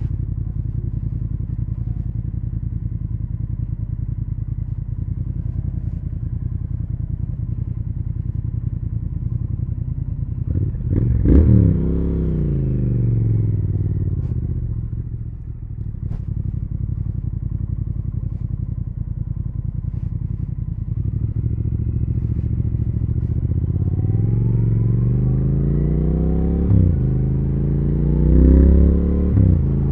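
Triumph Speed Twin 1200's parallel-twin engine and exhaust ticking over steadily, then a sharp rev about a third of the way in that falls away. Later it pulls away, the pitch rising as it accelerates, with two upshifts near the end.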